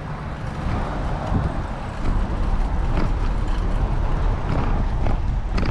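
Wind rumble on the microphone and tyre noise of a bicycle riding along a path. The rumble gets stronger about two seconds in.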